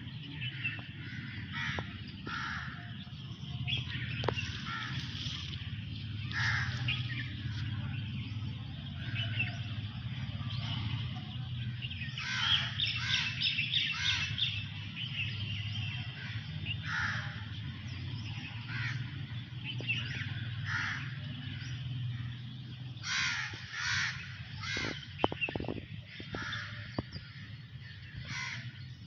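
Birds calling outdoors in short, repeated calls, sometimes several in a quick run, over a steady low hum.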